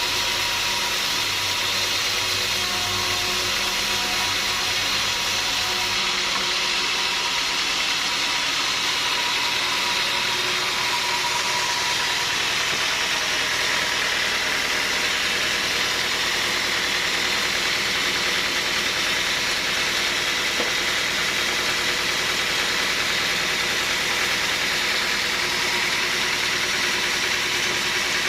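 Sawmill machinery running steadily with a continuous mechanical drone. About six seconds in, a low hum drops out and the higher-pitched running noise carries on.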